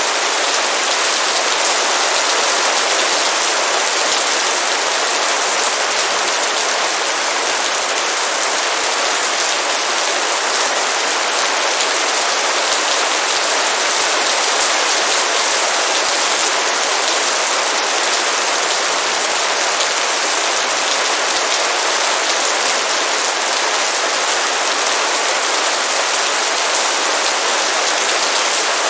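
Heavy rain falling in a steady downpour: a dense, even hiss with no let-up.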